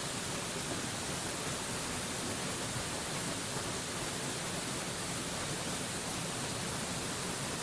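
Steady rushing of a waterfall: an even, unchanging hiss of falling water with no breaks or distinct splashes.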